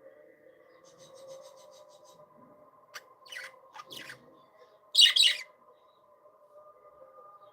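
Budgerigars calling: a quick run of high chatter, then several sharp chirps, and a louder burst of squawky chirps about five seconds in, over a steady faint hum.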